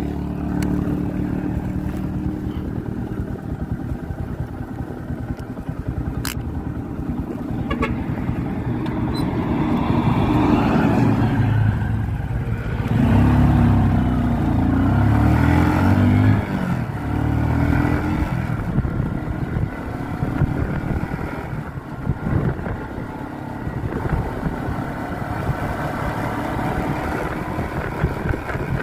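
Motorcycle engine running while riding, with wind noise on the microphone. About ten seconds in it grows louder, its pitch stepping up and down for several seconds, then it settles back to a steady run.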